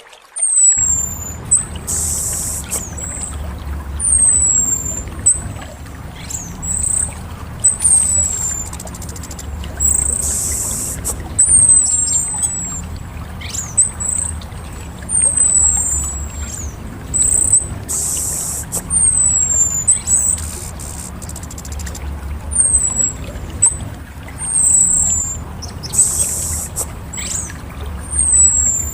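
Orange-headed thrush calling: thin, high whistled notes sliding downward, repeated about once a second. Underneath is a steady low background noise, and a short burst of hiss comes about every eight seconds.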